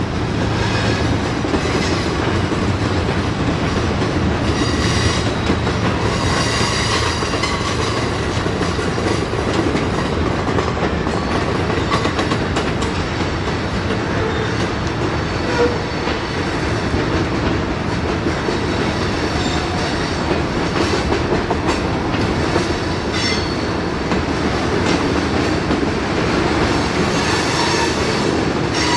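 Freight cars of a CSX manifest train, boxcars and covered hoppers, rolling slowly past: a steady rumble with the clickety-clack of wheels over the rail joints.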